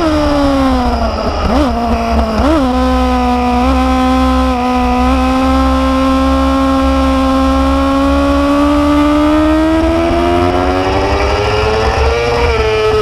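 Motorcycle engine heard from on board the moving bike. The engine note falls with three short jumps in pitch in the first few seconds, holds steady, then climbs slowly as it accelerates and drops off near the end. Wind rumble on the microphone lies under it throughout.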